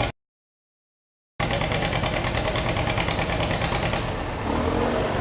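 After a dropout of about a second of silence, a 1949 John Deere B tractor's two-cylinder engine runs with an even, rapid pulsing exhaust beat.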